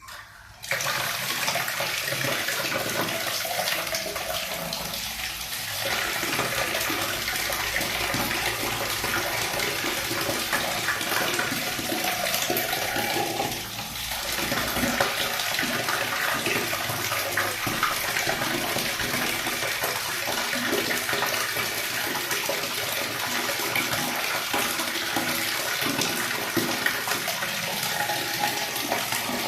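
Water running steadily from a tap, starting abruptly about a second in.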